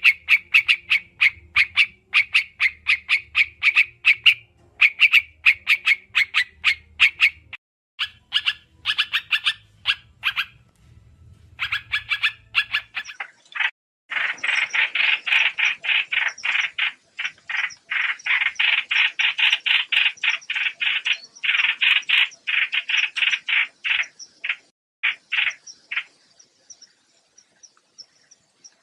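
Trao trảo birds calling in rapid trains of short, sharp chattering notes, many per second, used as a trapping lure call. The notes thin out near the middle, come back in a dense, loud run through the second half, and stop a few seconds before the end.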